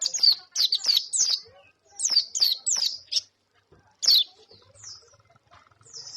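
White-eye (pleci) singing hard: quick, high chirps that each slide downward, fired in rapid clusters of several notes, then thinning to single chirps spaced about half a second to a second apart.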